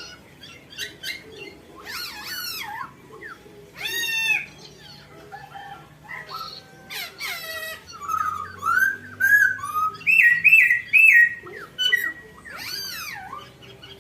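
A crested songbird singing: a varied string of loud whistled notes and sweeping chirps in short phrases with brief gaps, including a quick run of repeated notes about ten seconds in.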